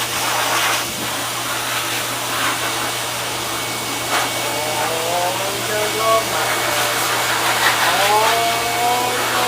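Pet grooming blower dryer running steadily, a constant airy noise with a low hum underneath, while a Labrador's coat is dried.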